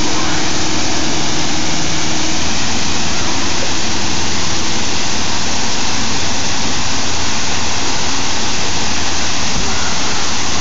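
Waterfall pouring down rock into the lake: a loud, steady rush of falling water, with a low steady hum underneath.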